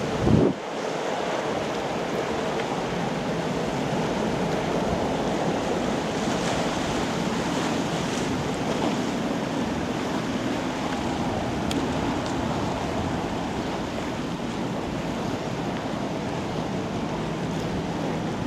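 Steady wind noise buffeting the microphone over open water, with one short, loud low gust-thump just after the start.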